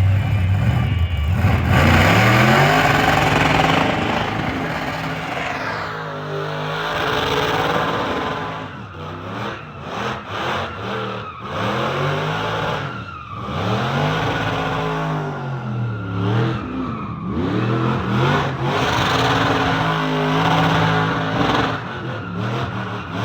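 Diesel pickup truck engine revved hard up and down over and over during a burnout, with tires squealing.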